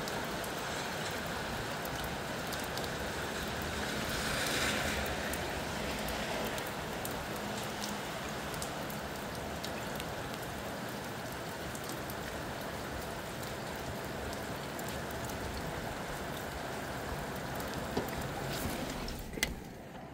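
Steady rain with wind, scattered drops ticking on a nearby surface. The noise swells briefly about four seconds in and falls away just before the end.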